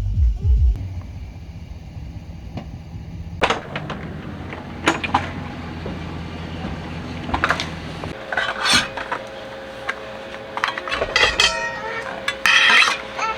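Clinks, knocks and rattles of things being handled, over a low hum that stops about eight seconds in. A steady tone then sets in under short bursts of quick rattling.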